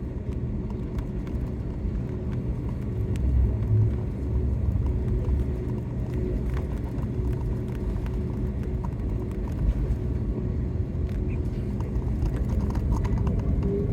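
Airbus A330 jet airliner on the ground: a steady low rumble with a faint constant hum, growing slightly louder toward the end.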